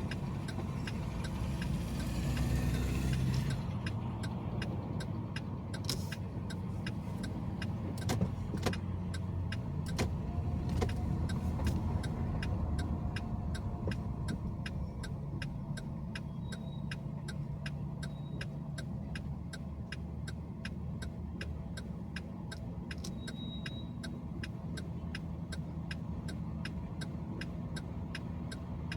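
Car driving along with steady engine and road rumble, swelling louder for a moment about two seconds in. A faint, regular ticking runs through it.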